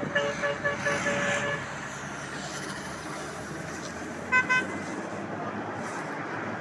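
Vehicle horn tooting in a rapid run of short beeps at the start, then one more short toot about four seconds in, over steady road traffic noise.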